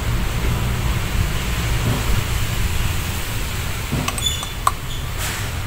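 Steady low rumble of background noise, with a light metallic clink from pump parts being handled about four seconds in.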